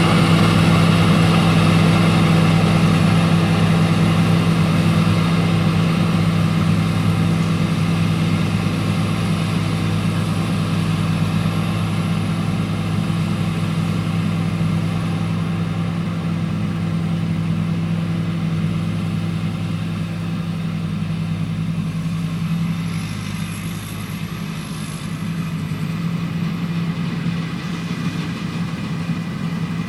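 Rice combine harvester's diesel engine running steadily, growing slightly fainter over the stretch, with a faint high whine above it.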